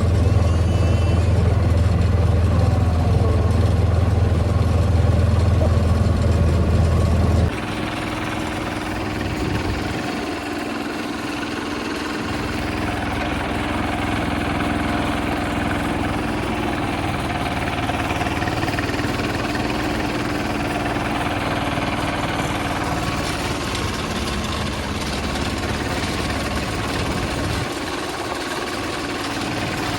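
A hand tractor's engine running steadily at idle. About seven seconds in, its sound drops suddenly in loudness and the deep hum goes, leaving a lighter steady running note.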